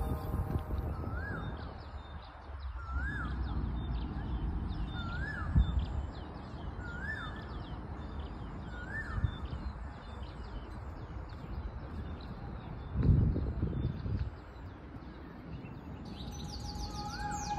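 A bird repeatedly calls a short rising-and-falling whistle, about once every one and a half seconds, then once more near the end, with fainter higher chirps from other small birds. Underneath is a steady low outdoor rumble, with a brief louder low noise about two-thirds of the way through.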